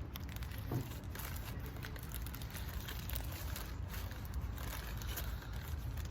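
Paper burger wrapper crinkling and rustling as a Whopper is unwrapped, in irregular small crackles over a steady low hum.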